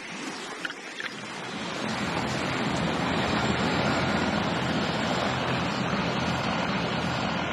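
Ocean waves and surf: a steady rushing noise that builds over the first couple of seconds and then holds.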